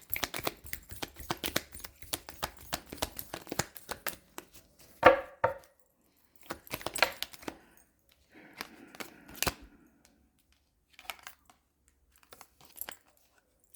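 A deck of oracle cards being shuffled by hand: dense card rustling and clicking for about six seconds, then a few short rustles and taps as cards are drawn.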